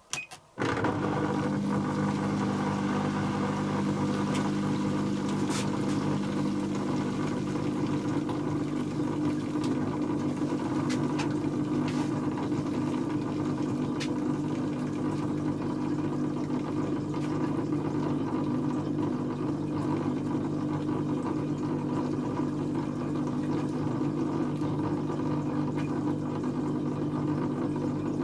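Dyson Contrarotator CR01 washing machine starting up suddenly and running with a steady, even hum, with a few faint clicks along the way.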